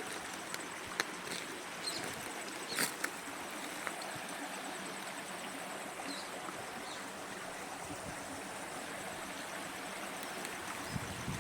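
Small water cascade running over rocks: a steady rushing, splashing stream, with a few brief sharp clicks about one and three seconds in.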